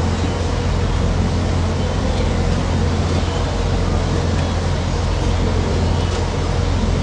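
Strong stormy wind on the microphone: a steady, loud low rumble with an even hiss over it.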